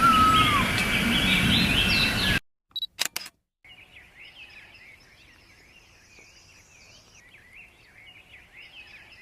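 Wild birds calling over a steady rushing background: a falling whistle right at the start among higher chirps, then an abrupt cut to a few quick camera shutter clicks, followed by faint, continuous twittering of small birds.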